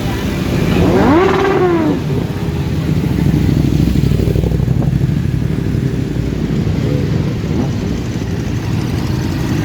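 Motorcycle engines running steadily in a slow procession. About a second in, one bike revs up and drops back, and there are smaller revs near the end.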